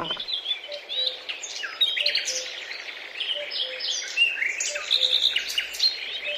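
Several small birds chirping and singing at once in short, overlapping calls. Under them, a faint two-note call, the second note lower, repeats about every second or so.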